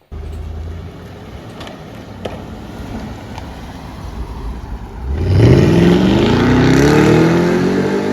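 V8 police car engine running low and quiet, then about five seconds in it opens up under hard acceleration, its note rising steadily in pitch and much louder.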